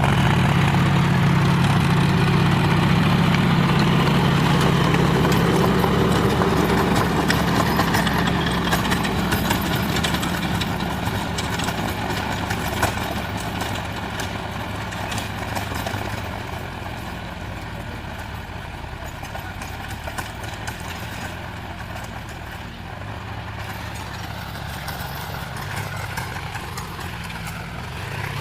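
John Deere 5050 D tractor's three-cylinder diesel engine running steadily, then growing quieter after several seconds as the tractor moves off, and carrying on at a lower level.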